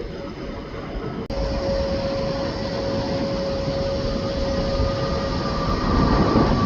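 Jet airliner engines running, growing louder, with a steady whine underneath and a higher whine rising in toward the end. A brief sharp dropout comes a little over a second in.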